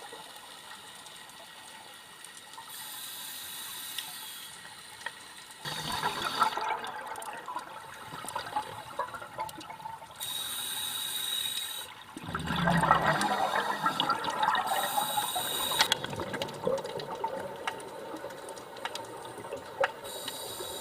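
Scuba regulator breathing heard underwater: hissing breaths alternating with bursts of exhaled bubbles gurgling, several times over.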